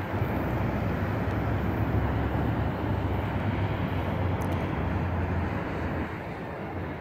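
Steady low rumble of an approaching diesel-hauled commuter train mixed with road traffic, easing slightly about six seconds in.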